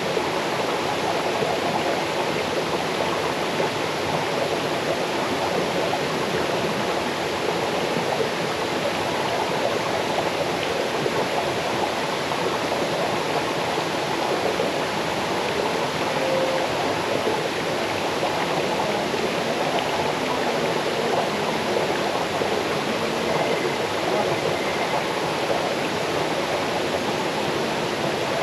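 Small waterfall cascading over rocks into a stream: a steady rush and babble of water, unchanging throughout.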